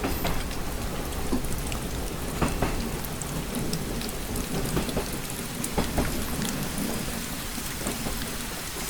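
Rain falling on window glass: a steady hiss dotted with many sharp drop taps, over a low rumble that fades near the end.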